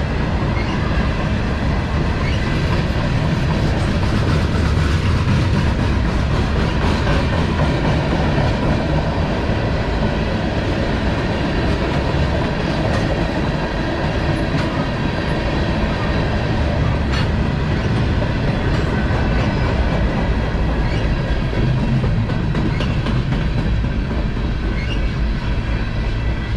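CSX freight train cars rolling past on the track: a steady, loud rolling noise, strongest in the low end, with a few sharp wheel clicks here and there.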